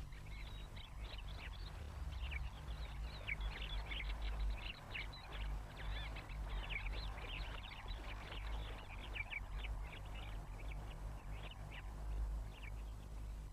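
Siskins twittering with many quick, high chirps in a continuous scatter, over a steady low hum from the old film soundtrack.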